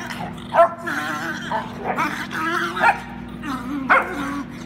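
Cairn terrier making odd play vocalisations: wavering, whining grumbles broken by a few short, sharp yips.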